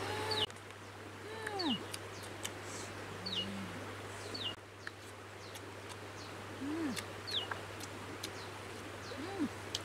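Birds calling in the surrounding countryside: short high calls that drop in pitch, repeated about once a second, and lower calls that rise and fall, over a steady low hum with a few scattered clicks.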